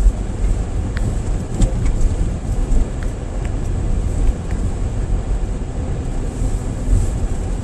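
Steady low rumble of tyres and engine heard from inside a moving car's cabin, with a few faint clicks about a second in.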